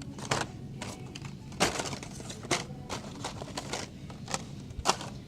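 Packaged die-cast toy cars being handled and set down while sorted: several sharp plastic clacks a second or so apart, with rustling between them.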